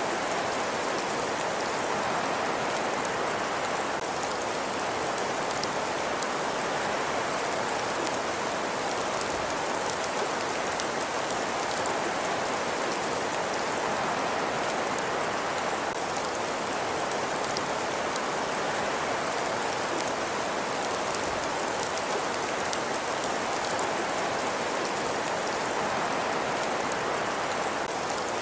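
Steady, even hiss of a rain-like ambience track, with faint scattered ticks and no change throughout.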